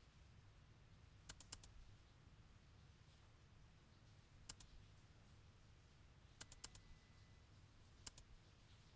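Faint typing on a laptop keyboard: scattered keystrokes in small groups, about three, then one, then four, then one, over a low steady hum.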